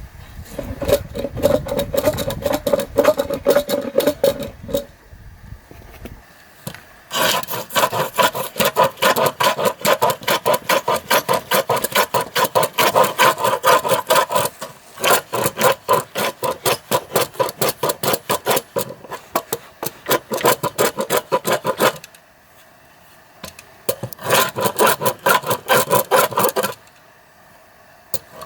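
A hand tool worked back and forth against a wooden log in quick, rhythmic strokes, several a second, in long runs broken by short pauses about two-thirds of the way through and again near the end.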